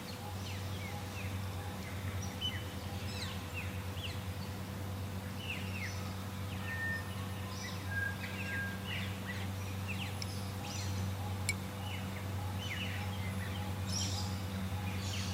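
Wild birds chirping and calling in many short, quick, downward-sliding notes throughout, over a steady low hum.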